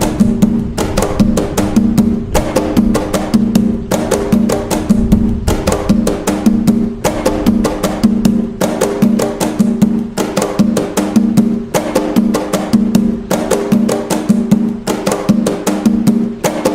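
Atabaque drum playing the toque nagô rhythm of Umbanda: a fast, evenly repeating pattern of sharp strikes with a ringing, pitched drum tone.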